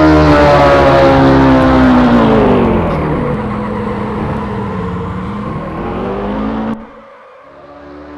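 Motorcycle engine running loud, its pitch falling over the first couple of seconds as it comes off the revs, then holding steady at a lower pitch. The sound cuts abruptly to a much quieter level near the end.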